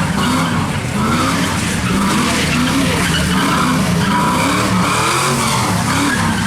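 A car doing donuts on wet pavement: the engine revs up and down over and over while the spinning tyres hiss on the wet road.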